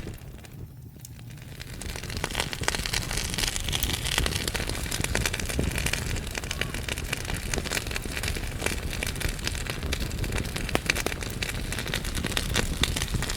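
Wood fire burning in a fireplace, logs crackling and popping in many quick sharp snaps over a low rumble of flame. It drops away briefly at the start, then comes back up and goes on steadily.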